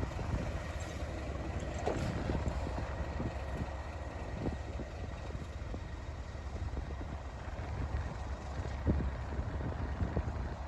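Steady low rumble of a Class 37 diesel locomotive running, with a few soft knocks and wind on the microphone.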